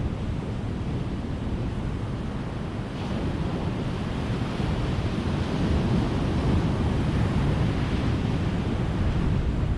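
Ocean surf: a steady wash of breaking waves that swells about three seconds in and stays fuller to near the end.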